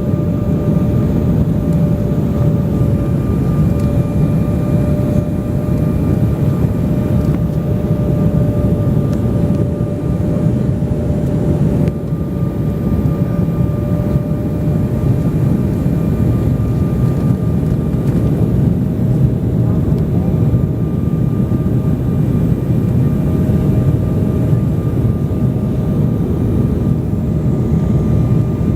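Airliner cabin noise in flight: a steady, dense low rush of engines and airflow, with a constant droning tone over it.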